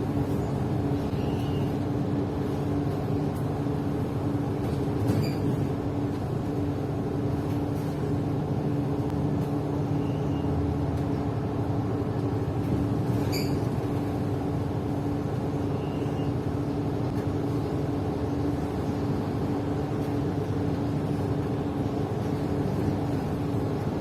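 A city bus running, heard from inside the cabin: a steady engine hum over road noise, with two sharp clicks or rattles about eight seconds apart.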